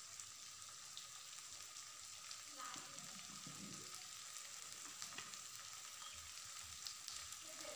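Potato and onion cubes frying in mustard oil in a kadhai over a medium gas flame: a faint, steady sizzle with scattered light crackles.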